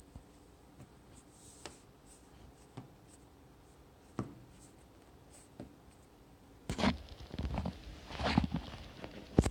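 Crunchy slime being handled: a few faint, scattered pops and clicks, then louder crackling squishes in the last three seconds, ending on a sharp pop.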